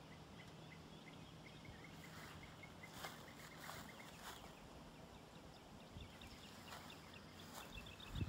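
Quiet outdoor ambience: a bird gives runs of quick, high, evenly spaced chirps, with a few soft rustles.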